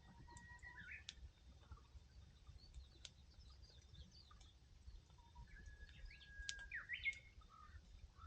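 Faint birdsong: a few whistled notes, some held and some gliding, among scattered short chirps. A few sharp clicks sound about a second in, around three seconds and near seven seconds.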